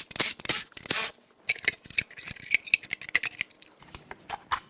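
Hand tools working on metal engine parts: rasping scrapes in the first second, then a run of short metallic clicks and taps, as bolts are worked loose to remove the valve covers from a 5.7 L Vortec V8.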